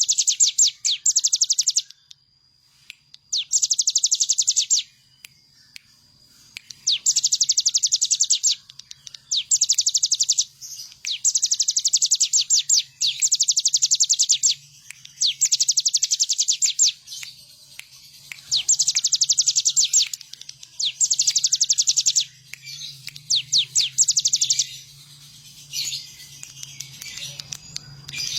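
Ciblek gunung, a prinia, singing in repeated bursts of very rapid high chirping notes. Each burst lasts a second or two, with short pauses between them.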